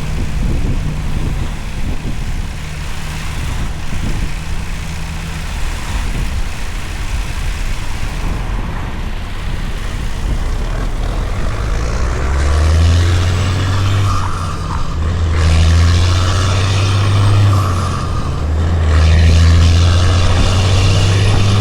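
Heavy diesel truck engine pulling a loaded lowboy with an excavator aboard, about 129,000 lb gross. It runs steadily at first, then from about halfway through it grows louder and deeper, with two brief dips.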